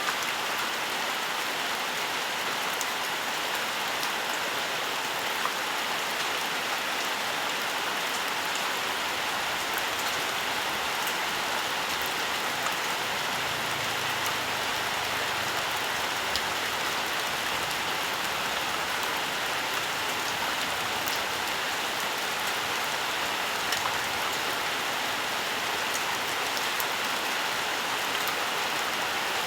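Steady rainfall, an even hiss of rain with scattered fine drop ticks and no let-up.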